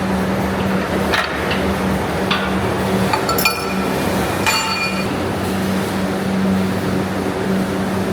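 Steady factory machinery hum with a few sharp metallic clinks and knocks; two of them, around the middle, ring on like struck metal.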